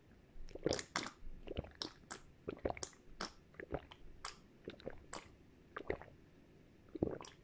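Close-miked eating sounds: a person chewing and biting mouthfuls of a chicken-and-tofu dish, with irregular crunches and mouth clicks two or three a second. The chewing pauses briefly about six seconds in, then resumes with a louder bite.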